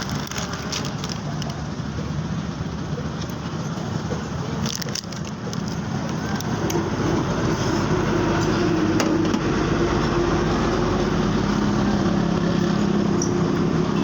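Honda CD 70 motorcycle's single-cylinder four-stroke engine running steadily, getting louder and holding a higher, steadier note from about halfway through. A few sharp clicks come just before the change.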